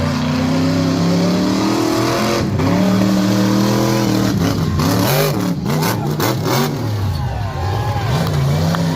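A vehicle engine revving hard. Its pitch holds high for a few seconds, dips and climbs several times around the middle, then holds steady again.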